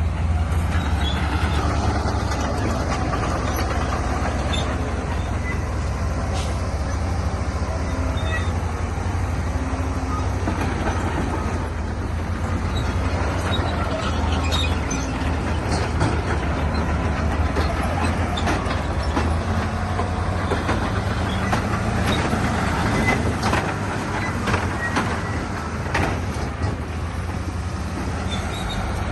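Crawler bulldozer's diesel engine running steadily under load, with its tracks and pushed rock clanking and knocking irregularly.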